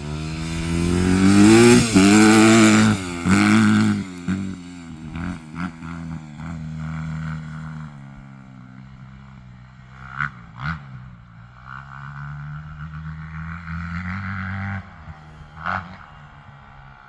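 Dirt bike engine revving hard, its pitch rising and falling over the first few seconds. It then settles into a quieter, steadier run, with a few short sharp clicks later on.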